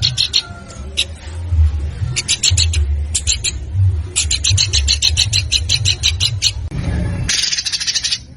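Songbird giving spurts of fast rattling notes, about ten a second, with short pauses between, and a harsh rasping call near the end, over a steady low rumble.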